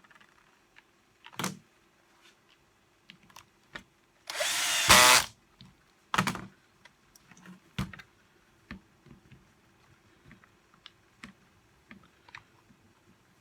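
A power screwdriver runs for about a second, about four seconds in, driving a self-tapping screw. Short clicks and knocks of parts and tools being handled come before and after it.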